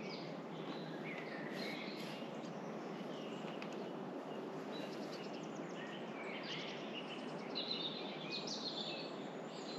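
Several small songbirds singing and calling, short chirps and trills overlapping, busiest near the end, over a steady background hiss.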